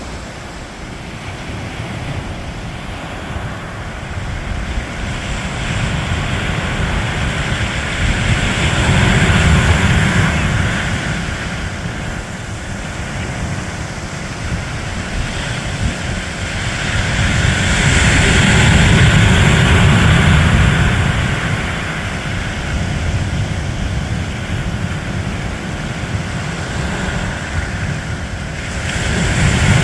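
Ocean surf with wind buffeting the microphone: a steady roar that swells and eases in slow surges about every ten seconds.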